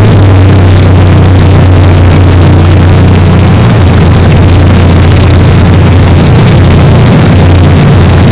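Engine running steadily with a constant low drone.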